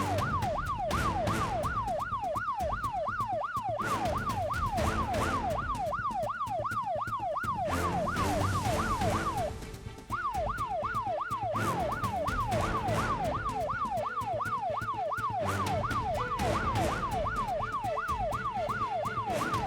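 Police siren wailing in a fast up-and-down yelp, about three sweeps a second, over vehicle engine and road noise. The siren stops briefly about halfway through, then starts again.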